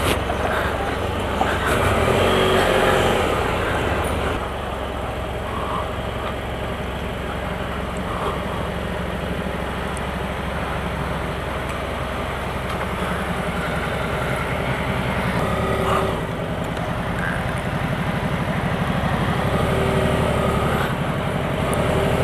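Motorcycle engine running steadily at low revs while the bike rolls slowly.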